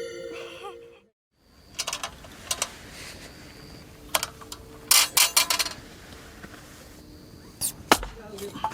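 Scattered sharp clicks and knocks in small clusters, after a ringing tone fades out in the first second.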